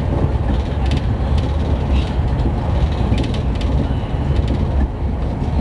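CRH1 high-speed electric train running fast, heard inside the carriage: a steady, loud low rumble of wheels and airflow, with scattered sharp clicks.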